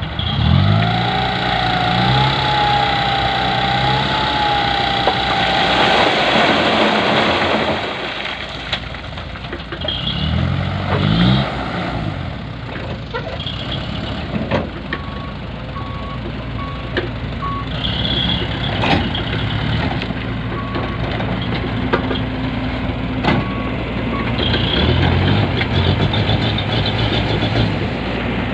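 Diesel engine of a laden dump truck running and revving repeatedly, its pitch climbing a few seconds in, again about ten seconds in and near the end. A reversing alarm beeps in short runs partway through.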